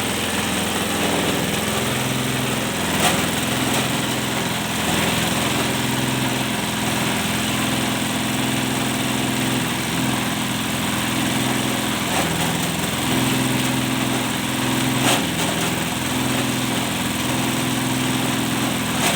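Engine-driven cocopeat machine grinding coconut husk: a steady motor drone whose pitch shifts a little every few seconds as the load changes, over a constant grinding hiss, with a sharp knock about three seconds in and another near fifteen seconds.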